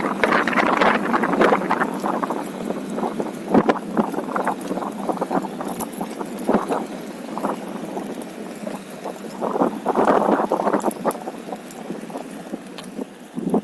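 Wind buffeting the microphone and rolling noise from a OneWheel electric board riding a trail, with scattered sharp clicks and knocks from bumps. The noise comes in gusts, loudest near the start and again about ten seconds in, and eases toward the end.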